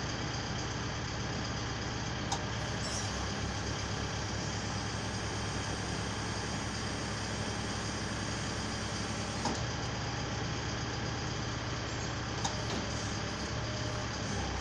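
Manlift truck's diesel engine running steadily, as it does while the boom is tested, with three short clicks along the way.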